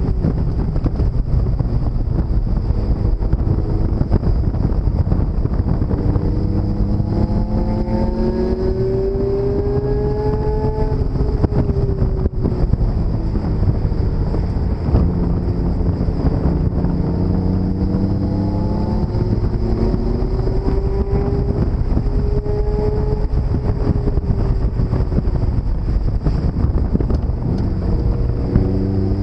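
Open-top sports car's engine heard from the cockpit while lapping a race circuit, its note climbing over several seconds and dropping back a few times, over heavy wind buffeting and road rumble.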